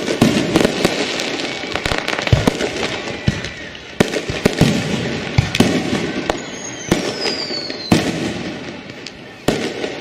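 Fireworks going off: repeated sharp bangs with crackling between them, the biggest near the start, about four seconds in, and near the end. A whistling firework sounds past the middle, its pitch falling for about a second and a half until a bang.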